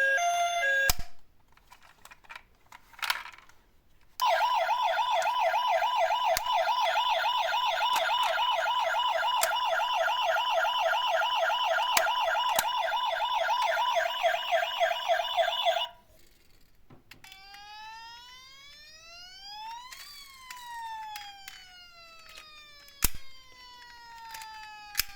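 Electronic siren wailing in a fast, even warble for about twelve seconds. It then gives way to several whistle-like tones gliding up together and back down, with a couple of sharp clicks. A short stretch of jingle music ends about a second in.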